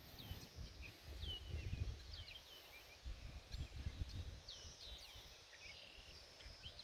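Faint outdoor birdsong: many short, falling chirps repeated over and over, with low, irregular muffled rumbling underneath.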